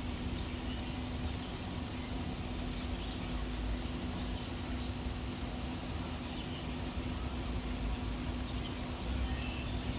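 Steady outdoor background noise with a constant low hum, and a few faint bird chirps about three seconds in and again near the end.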